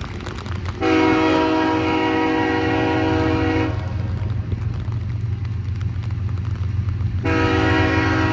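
CSX freight locomotive's air horn sounding a long blast of about three seconds, then a second long blast starting near the end, over the steady low rumble of the train.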